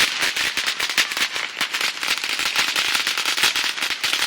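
Fireworks crackling: a dense, irregular run of sharp pops, many to the second.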